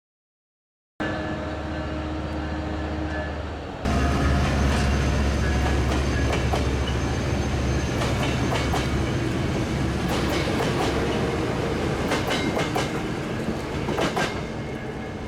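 Diesel-hauled train passing: after a second of silence the locomotive's engine runs with a steady hum, jumping louder about four seconds in, then the wheels click repeatedly over the rail joints as the cars go by.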